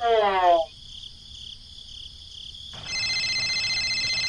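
A short pitched sound sliding downward at the start; then, about three seconds in, a telephone ringtone begins, a steady high electronic trill. Crickets chirp steadily underneath.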